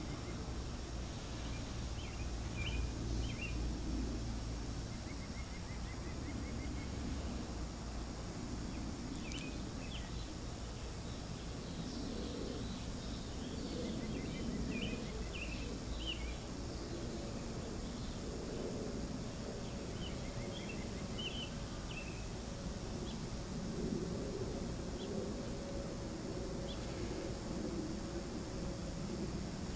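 Outdoor ambience: small birds giving short scattered chirps and a few quick trills every few seconds, over a steady low rumble.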